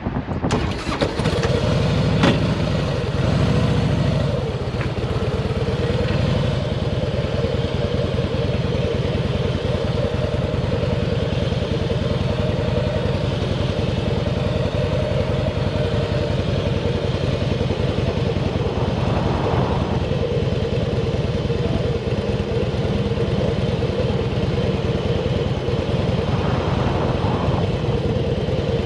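Harley-Davidson Fat Boy's V-twin engine running as the motorcycle is ridden, picking up in the first few seconds and then running steadily.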